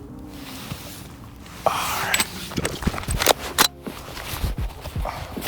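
Umarex Strike Force CO2 BB gun firing a string of sharp shots at uneven spacing, starting about a second and a half in, with BBs hitting a disposable vape.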